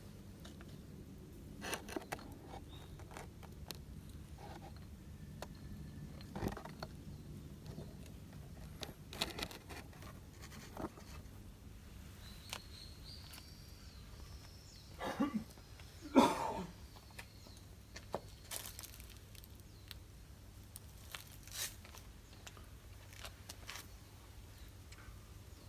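Wood fire crackling, with scattered sharp pops and a couple of louder knocks near the middle.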